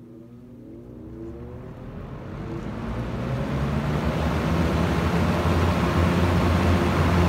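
1977 Lasko model 4746 20-inch box fan starting up, heard close up: motor hum rising in pitch as the blades spin up. The rush of air grows louder over about four seconds, then runs steadily with a low motor hum.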